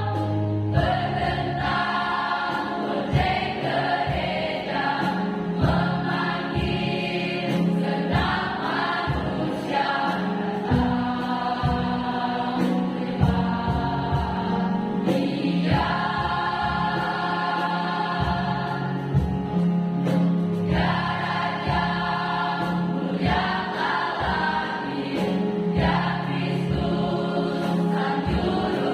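A mixed school choir singing a Christian hymn in several parts over a regular low beat.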